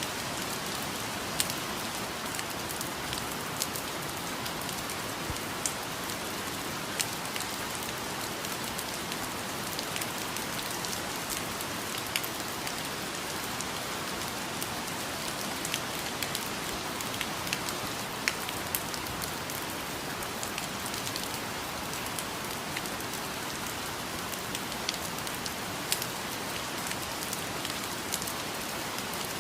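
Steady rainfall pattering on rainforest foliage, with individual drops ticking sharply here and there over a constant hiss.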